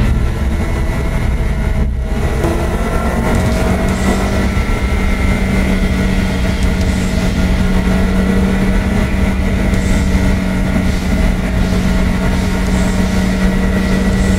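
Lotus Elise engine running under steady load at a nearly constant pitch, heard from inside the cabin along with road noise from the wet track. There is a short break in the sound about two seconds in, after which the engine note holds steady.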